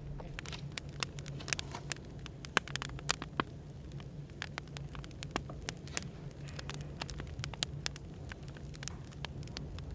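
Burning firewood crackling, with many irregular sharp pops and snaps, over a steady low hum of café background noise.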